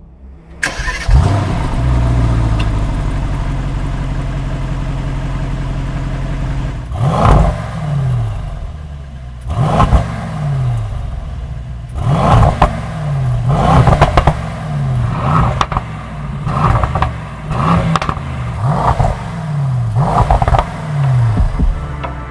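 Mercedes-AMG E63 S V8 engine firing up with a flare, settling into a steady idle, then blipped repeatedly, each short rev dropping back down to idle.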